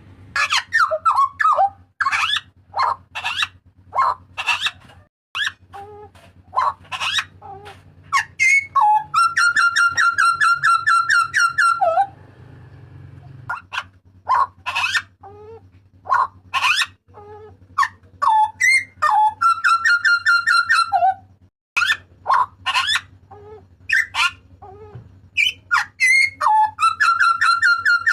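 Butcherbird (jagal papua) giving loud, sharp screaming calls: quick notes that mostly fall in pitch, broken three times by a fast stuttering run of repeated notes lasting a couple of seconds. A faint steady low hum runs underneath.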